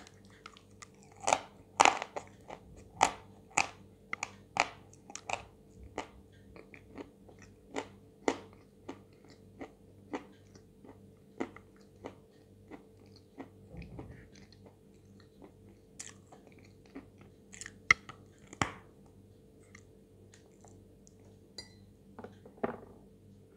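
Dry white chalk ('White Velour' eating chalk) being bitten and chewed close to the microphone: sharp, separate crunches, about one or two a second, most frequent in the first six seconds and sparser after that.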